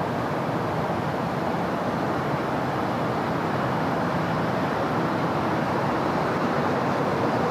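Continuous city road traffic: many vehicles blended into one steady, even wash of noise, with no single car standing out.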